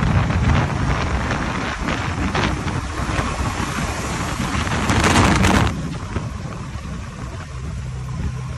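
Heavy diesel engine running steadily, with a loud rushing noise for well under a second about five seconds in, after which the running is a little quieter.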